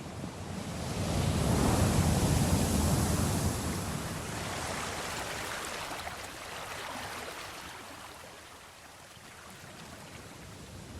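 Ocean surf: a wave swells and breaks in the first few seconds, then washes back and fades, and the next one begins to build near the end.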